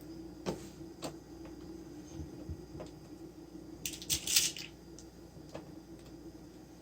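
Handling noise from parts being worked on: a few light clicks and taps, then a short scraping rustle about four seconds in, over a steady low hum.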